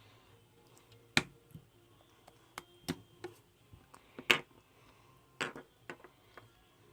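A series of irregular sharp clicks and taps, about a dozen, the loudest about a second in and just after four seconds in, in a small room.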